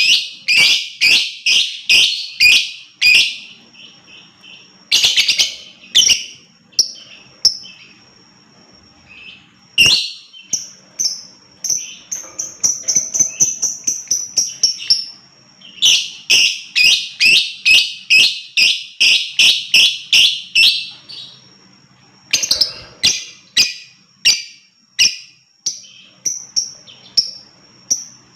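Lovebird chattering in long runs of shrill, rapid chirps, about three a second, each run lasting several seconds with short pauses between: the extended 'ngekek' call kept by bird hobbyists as a tutor recording.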